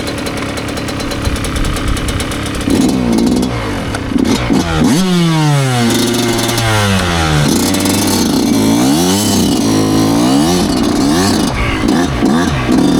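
2009 Yamaha YZ125 two-stroke single-cylinder dirt bike engine idling, then revved up and down in a series of short throttle bursts from about three seconds in.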